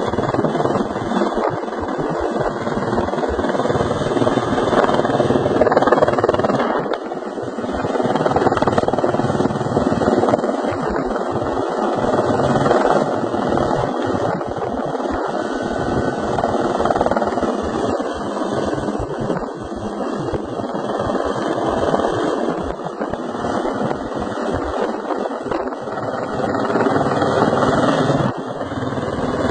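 Helicopter running, a steady dense rotor and engine noise that swells and eases slowly in loudness.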